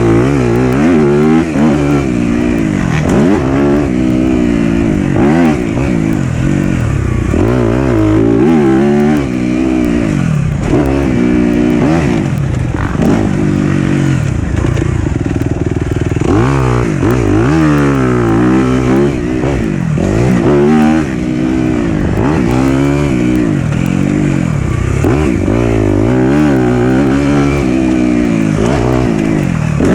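Four-stroke single-cylinder dirt bike engine being ridden hard on a trail: the pitch climbs and drops again every second or two as the throttle is opened and closed and the gears are changed.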